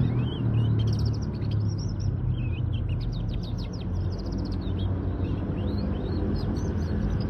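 A domestic canary singing: quick chirps and warbled phrases, with a fast trill of rapidly repeated notes about halfway through. A steady low rumble of background noise runs underneath.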